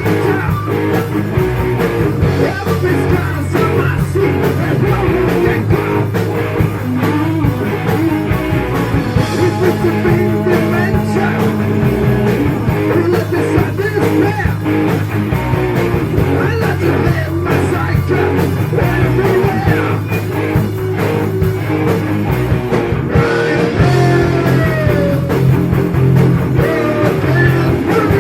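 Heavy metal band playing, electric guitar to the fore, with singing.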